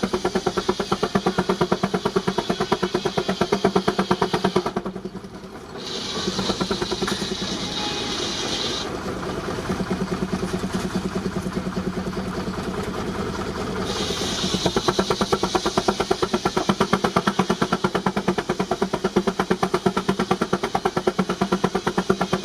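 Baker 19-65 Uniflow steam traction engine running, its exhaust beating in a fast, even rhythm. About five seconds in the sound drops briefly, then runs smoother with less distinct beats for several seconds before the sharp beats return.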